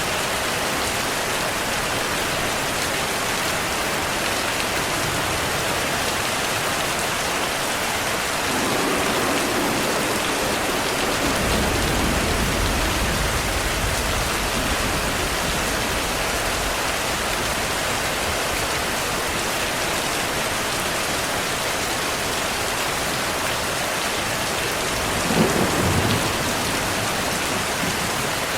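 Steady rain falling, with thunder: a long low rumble rolls in about eight seconds in and fades over several seconds, and a shorter, louder thunderclap comes near the end.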